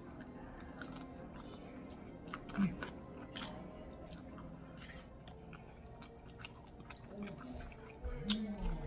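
Close-up chewing and biting of crispy fried chicken, with scattered sharp crunches of the breading. Faint background music runs underneath, and a short low hum of the voice comes near the end.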